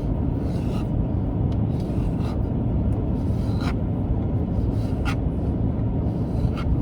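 A knife cutting bologna into cubes in a frying pan: a few light, scattered clicks of the blade against the pan, over a steady low rumble.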